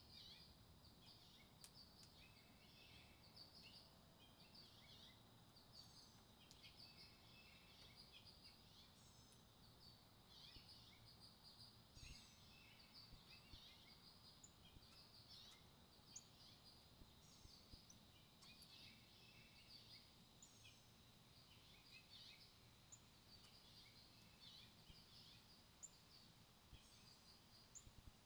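Faint wild birdsong: many short, high chirps and trilled notes from several birds, coming in scattered bursts throughout, over a low, steady background rumble.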